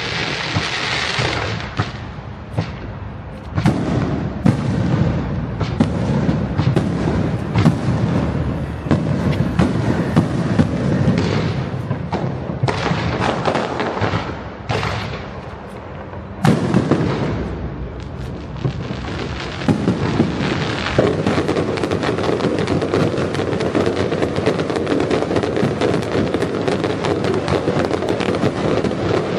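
Fireworks going off in a continuous display: many sharp bangs over dense crackling, growing fuller about three and a half seconds in and again with a sudden loud burst about sixteen seconds in.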